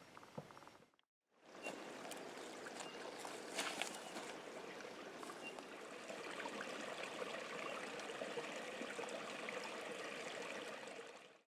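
Steady rushing of running water, like a small stream, with a few faint ticks. It starts about a second in, after a brief silence, and cuts off suddenly near the end.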